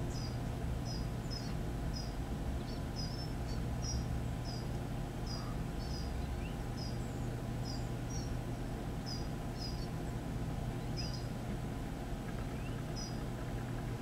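A small bird calling with short, high-pitched chirps, roughly two a second at an uneven pace, over a steady low hum.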